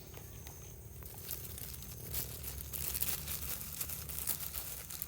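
Irregular crackling and crinkling clicks, sparse at first and growing denser about two seconds in.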